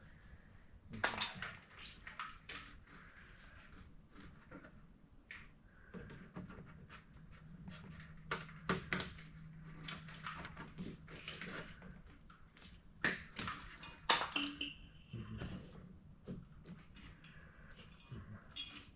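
Irregular clicks, taps and rattles of hands working the car's front wiring harness and its plastic connectors and clips. A faint low hum runs for a few seconds in the middle.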